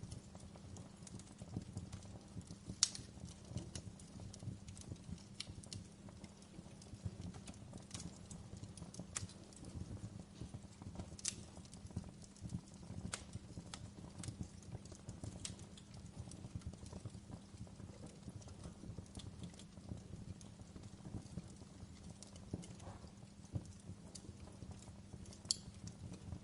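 Wood fire burning in a fireplace: a steady low rumble of flames with irregular sharp crackles and pops, the loudest about three seconds in.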